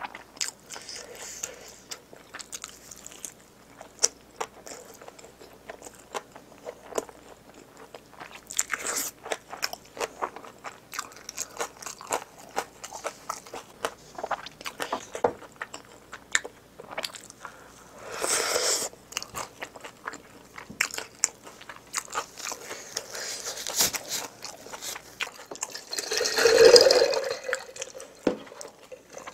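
A person chewing and biting food close to the microphone, with wet mouth sounds and many small clicks. There is a louder burst of sound near the end.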